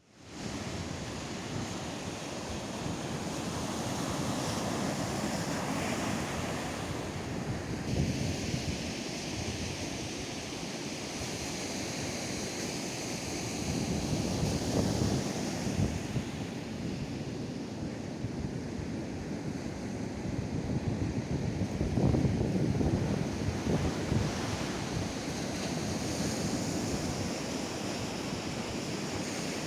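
Atlantic surf breaking and washing on a sandy beach in a continuous rush that swells louder a few times, with wind buffeting the microphone.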